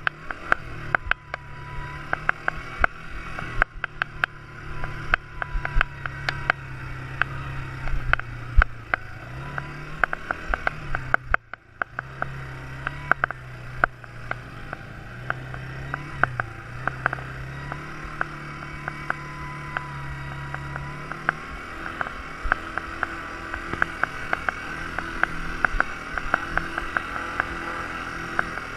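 Quad bike engine running, its pitch stepping up and down and gliding with the throttle, with many sharp clicks and knocks over it. The engine sound drops away briefly about eleven seconds in, then picks up again.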